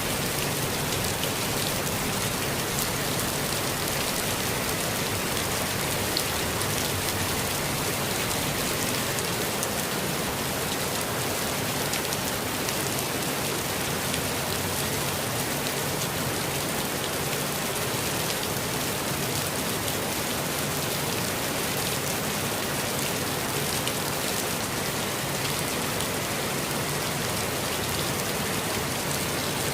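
Steady rain falling on a forest, an even hiss with many small drop patters.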